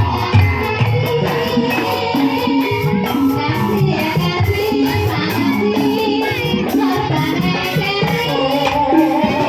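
Live Javanese ebeg (kuda lumping) accompaniment music: an ensemble playing with singing over a steady, rapid rattling percussion beat.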